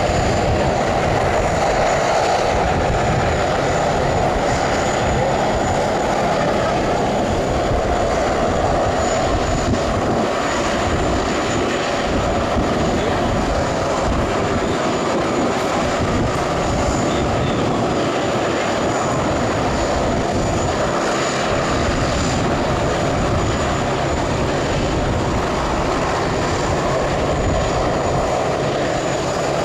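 Aircraft engines running at a steady level, a loud, even roar with a thin high steady whine and an uneven low rumble underneath.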